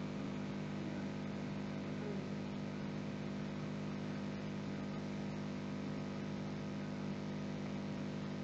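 Steady, unchanging low hum of electrical or fan noise with a light hiss, the recording's background.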